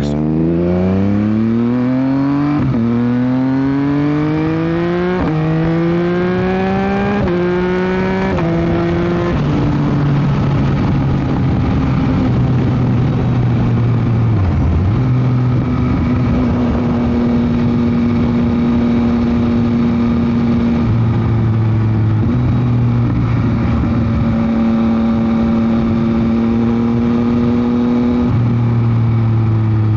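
Yamaha MT-09 SP three-cylinder engine through a Dominator GP exhaust, accelerating hard through four quick upshifts in the first eight seconds. Its pitch climbs in each gear and drops at each shift, then it settles into a steady cruise. Wind noise on the microphone throughout.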